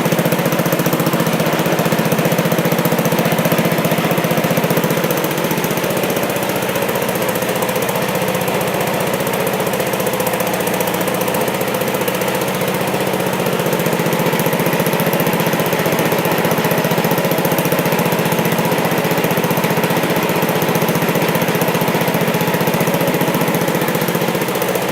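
The 10 horsepower Tecumseh HH100 single-cylinder flathead engine of a 1966 Sears Suburban 10 garden tractor running steadily and loud, a little quieter from about five seconds in.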